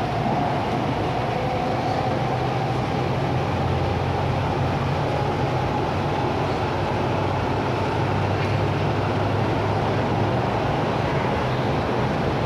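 MTR East Rail Line R-train, a Hyundai Rotem electric multiple unit, running along the line: a steady rumble of wheels and running gear with a faint steady motor whine above it.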